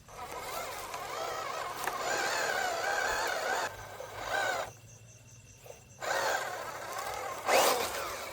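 A small electric motor whirring in three bursts, its pitch wavering. The first burst is the longest, a short one comes in the middle, and another starts about six seconds in.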